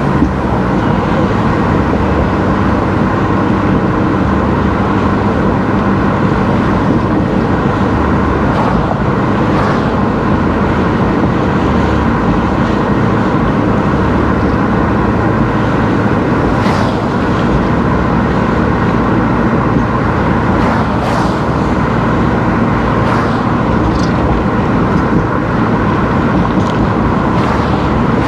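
A car driving along a road, with steady engine and tyre noise.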